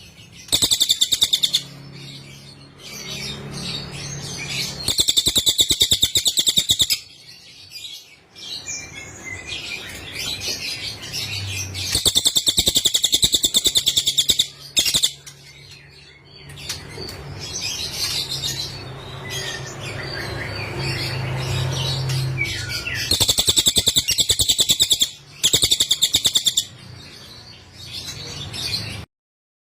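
Cililin bird song: loud bursts of rapid, high-pitched trilling notes, each lasting one to two seconds and repeated every few seconds, with softer twittering between them over a low background hum. The song cuts off just before the end.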